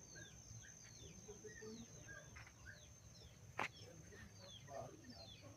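Faint chirping of small birds: many short, quick falling calls, over a steady thin high whine, with one sharp click a little past halfway.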